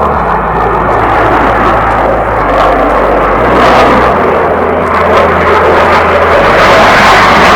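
An aircraft in flight overhead, its engines producing a loud, steady rushing noise that grows louder and brighter toward the end as it comes closer.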